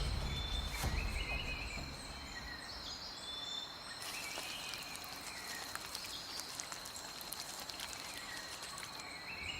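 Rainforest insect chorus: a steady high-pitched insect drone, with short chirping calls scattered over it.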